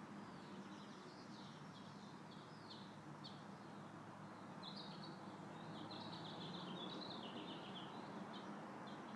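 Faint songbirds chirping in quick runs of short high notes, busiest in the middle stretch, over a steady outdoor background noise with a low hum.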